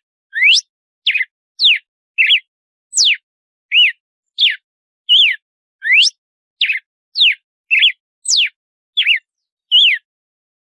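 Red-cowled cardinal (galo-de-campina) singing its 'açoite' song: a steady series of loud, clear whistled notes, about one and a half a second, alternating steep downward sweeps, upward sweeps and short arched notes, stopping near the end.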